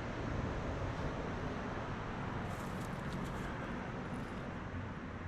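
Steady outdoor background noise with a low hum, and a few faint clicks about halfway through.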